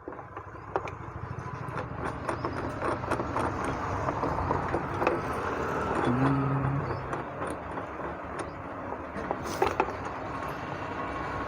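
Small metal clinks and scrapes as a bearing puller's jaws are fitted around a mixer grinder's coupling, over a steady background rumble, with a brief low hum about six seconds in.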